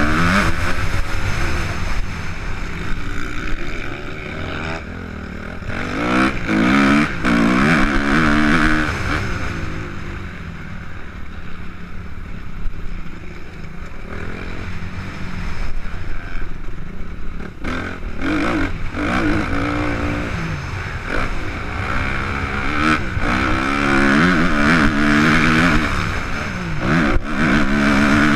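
Suzuki RM-Z 250 four-stroke single-cylinder motocross bike being ridden hard. The engine revs up and drops back again and again, with several quick rises and falls in pitch, over a steady rushing noise.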